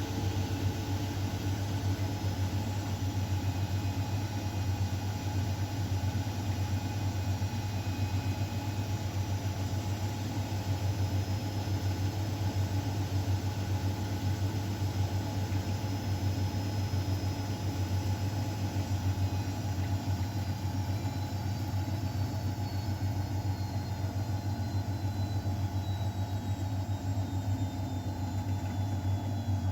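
Miele Novotronic W912 washing machine running with a steady motor hum. A high whine slowly falls in pitch over the last ten seconds as the motor slows.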